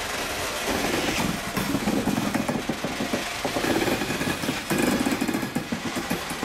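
Yellow open box freight wagons rolling slowly past, their bodies and running gear rattling and clanking in a fast, uneven clatter.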